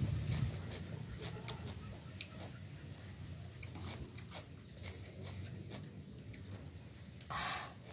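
Quiet mouth sounds of someone chewing a mouthful of noodle salad with raw vegetables, with soft scattered clicks. A short breathy exhale near the end.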